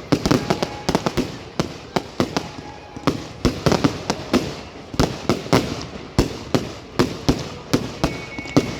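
Fireworks display going off: an irregular string of sharp bangs and crackles, several a second.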